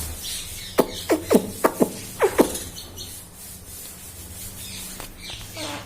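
Indian ringneck parrot giving a quick run of about seven short calls, each sliding sharply down in pitch, starting about a second in, then one softer falling call near the end.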